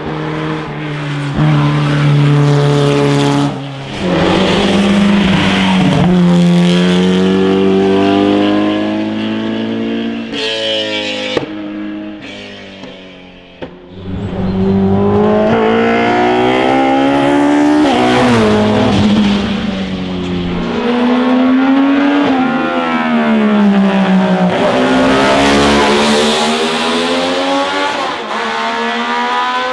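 Classic racing car engines accelerating hard through the gears, their pitch climbing and then dropping back at each upshift, heard over several passes. Around the middle the engine sound fades to a quieter stretch before another car comes in loud.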